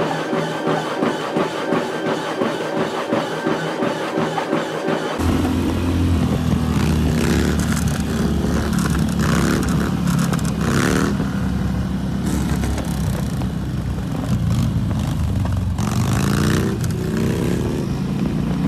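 A steady, evenly repeating mechanical whirr, then a sudden switch about five seconds in to a loud vehicle engine running and revving, its pitch rising and falling.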